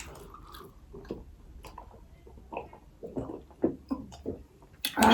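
Close-miked chewing and mouth sounds of people eating, with small irregular clicks and smacks. A short loud burst comes near the end.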